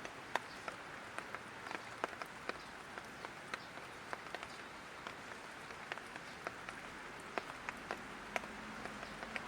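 Light rain falling, a steady soft hiss with individual drops ticking sharply and irregularly, a few each second.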